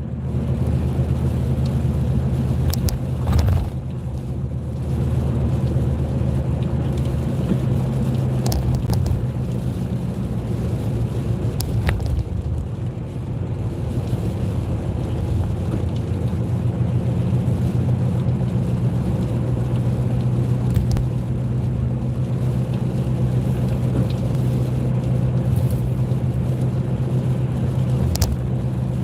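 Car driving, heard from inside the cabin: a steady low engine and road hum, with a few sharp clicks now and then.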